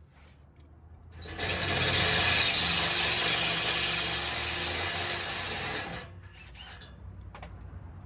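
A handheld power tool runs steadily for about four and a half seconds, starting a little over a second in and stopping about six seconds in. It is working on the bolts of a truck bumper mount, with a few faint clicks of handling before and after.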